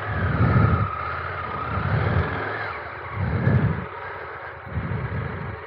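Adventure motorcycle engine revving in about four surges as the rider tries to climb a steep slope with the rear tyre spinning for lack of grip. A whine rises and falls during the first two or three seconds.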